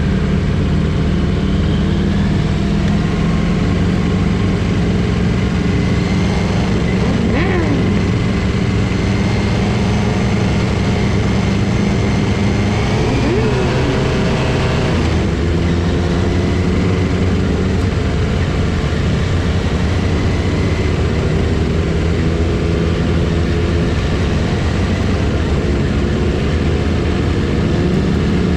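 Motorcycle engines running steadily, several engine notes overlapping, with a shift in pitch about halfway through and a few short rising and falling notes.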